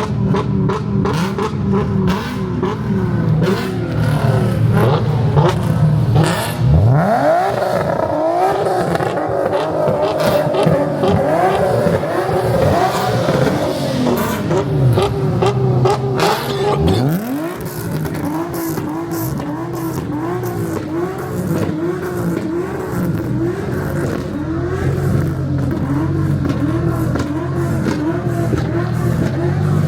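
Car engines idling and burbling, with one engine revved sharply twice, about ten seconds apart, its pitch climbing fast each time. Short crackles and pops run over the idle.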